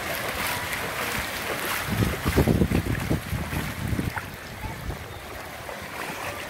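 Heavy rain and floodwater running across a yard, a steady wash of noise. About two seconds in, wind gusts buffet the microphone for a couple of seconds.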